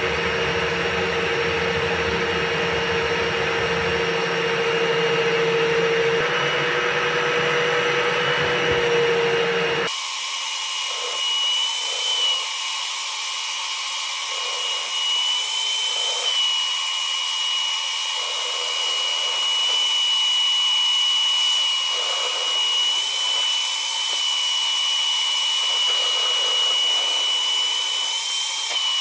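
Cordless drill spinning a rotary dryer-vent cleaning brush inside a duct, a steady high whine with a hiss. About ten seconds in the sound changes abruptly and loses its low rumble.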